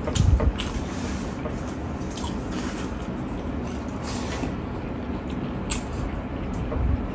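Close-up wet eating sounds from a mouthful of curry and rice eaten by hand: squishy chewing and scattered short mouth clicks and smacks. A low thump about a third of a second in is the loudest sound, with a smaller one near the end.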